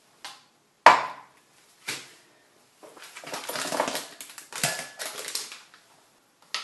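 A utensil knocking sharply against a bowl about a second in, again a second later, then a few seconds of scraping and clatter as pieces of chicken are mixed in the bowl.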